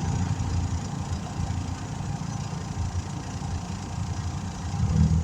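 Air compressor running steadily with a low pulsing throb, building pressure in its tank to seat a tire bead.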